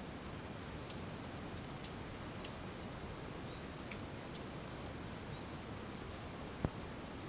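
Steady rain, with scattered small drips ticking and one short low thump near the end.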